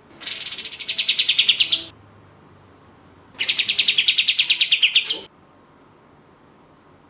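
Kapas tembak (ashy tailorbird) singing two rapid, rattling trills of fast repeated high notes, each lasting just under two seconds; the first starts higher and drops in pitch, the second stays fairly level.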